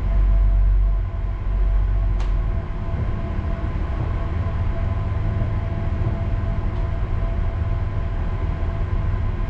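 A ship's engine running, heard on board as a steady low drone with a faint steady hum above it; the drone is heaviest in the first second and eases slightly after that. There is a single faint click about two seconds in.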